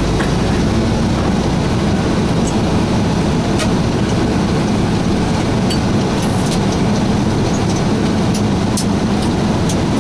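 Pierce Enforcer fire engine's diesel engine running steadily, a constant low drone with scattered small clicks and rattles.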